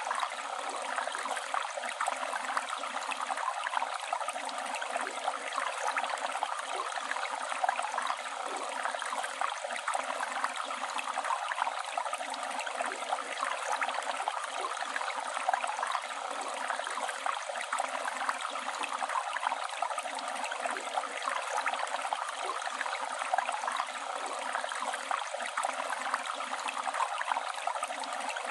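River water flowing and burbling steadily over rocks, a continuous rushing with constant small gurgles.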